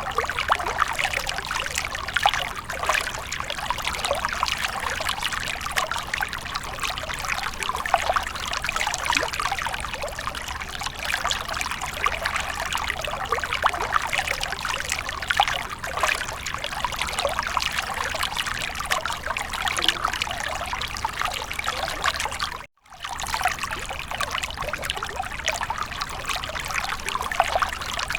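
Water fountain trickling and splashing steadily, a dense patter of small splashes. The sound cuts out for a split second about three-quarters of the way through.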